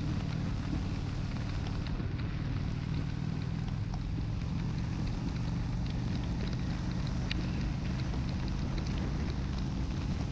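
Honda Shadow 750's V-twin engine running steadily at cruising speed, with wind buffeting the microphone. Faint scattered ticks, typical of rain hitting the camera, sound over it.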